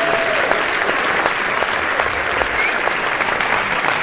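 A crowd applauding: dense, steady clapping from many hands, with faint voices in the crowd.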